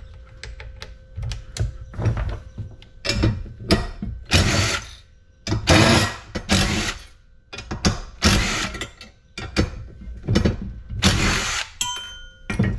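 Hand tools working screws and bolts out of a cast-aluminium light fixture: a run of short, irregular bursts of mechanical metal-on-metal noise, each under a second long.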